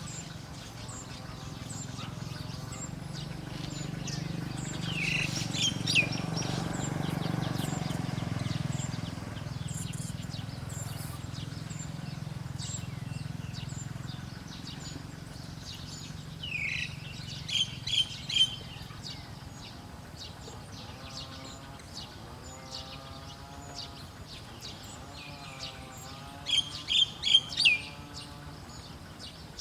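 Small wild birds chirping, with many quick high chirps throughout and three louder bursts of three or four sharp chirps each, at about 5 seconds, 17 seconds and 27 seconds in. A low steady rumble sits underneath and swells in the first third.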